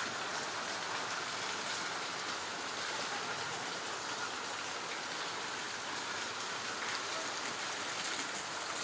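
Rain falling steadily, with a dense patter of drops.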